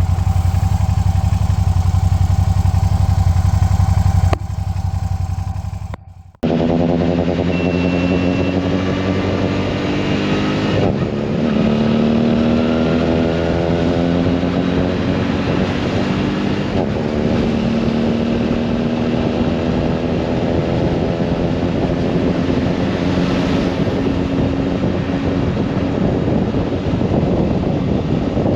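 Suzuki V-Strom's V-twin motorcycle engine idling steadily, then pulling away after a short break: the engine note climbs, drops back twice at gear changes, and settles into a steady cruise.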